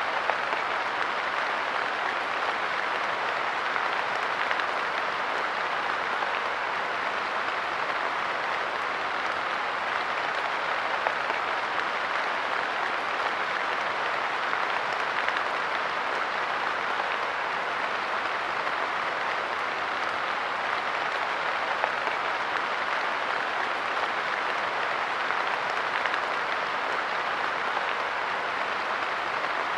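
Steady rain falling on a park bench, an even patter with a few louder drops standing out now and then.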